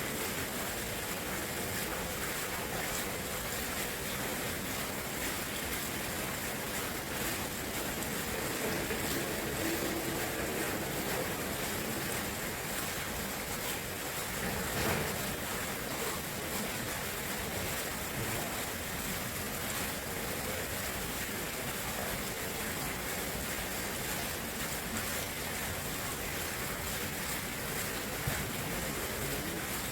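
Water rushing steadily, an even continuous wash with no pauses.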